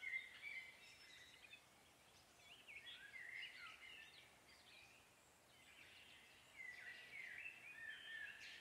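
Faint birdsong: short chirping phrases near the start, again around three seconds in, and through the last two seconds, over otherwise near silence.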